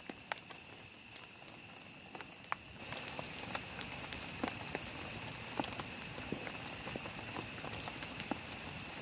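Raindrops pattering on a plastic tarp shelter, first as scattered drips, then thicker and louder from about three seconds in as the rain picks up. A steady high insect trill runs underneath.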